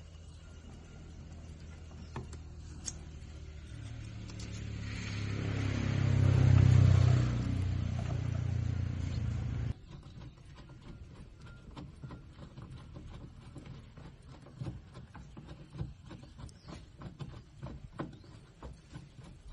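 Car engine running, growing louder to a peak about seven seconds in, then stopping abruptly near ten seconds; faint clicks follow.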